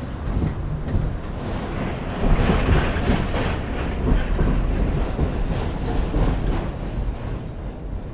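New York City subway N train running on the tracks: a heavy low rumble with wheels clattering over the rail joints, growing louder about two seconds in and easing off near the end.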